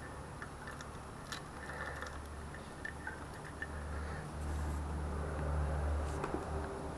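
Faint light clicks and taps of metal engine parts being handled as the cylinder is worked off, over a low hum that swells between about four and six seconds in.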